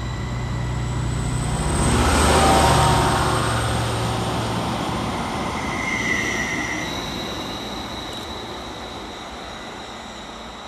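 Transport for Wales Class 231 diesel multiple unit pulling out of the platform and accelerating away. A low engine hum and high steady whines peak about two and a half seconds in, then fade as the train draws off; the whine changes pitch around six to seven seconds in.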